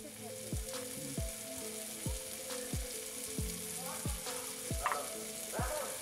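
Potatoes, taro and green vegetables sizzling as they fry in mustard oil in a metal kadai. Background music with a steady low drum beat, about three beats every two seconds, runs under it.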